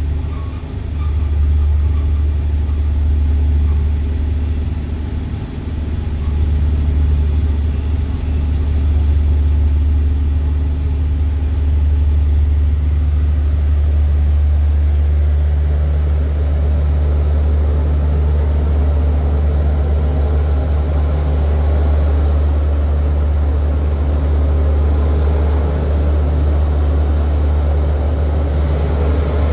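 Steady low rumble of a passenger train running, heard from inside the carriage, with the rolling noise growing fuller in the second half.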